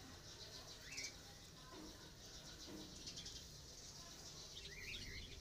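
Faint bird chirps over a quiet background: one short chirp about a second in and a few more near the end.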